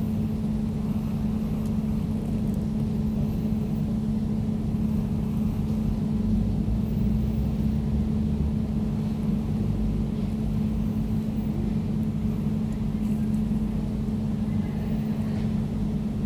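Air conditioner running steadily: an even mechanical hum with a low rumble beneath it.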